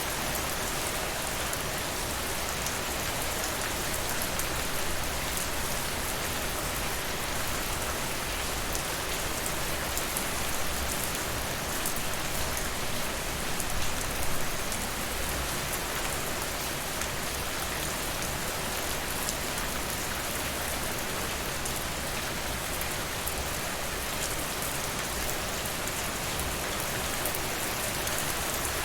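Steady, dense rain falling on a surface, with fine scattered drop ticks. It swells briefly about fourteen seconds in.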